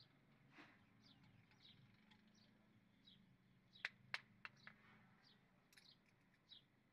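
Faint bird chirping, one short high chirp about every two-thirds of a second. About four seconds in comes a quick run of four or five sharp metal clicks, from hand tools on an engine's rocker arms and adjusting screws during valve clearance (tappet) adjustment.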